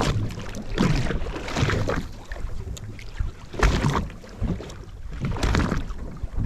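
Wind and water noise aboard a boat at sea: irregular surges of water against the hull, with wind buffeting the microphone.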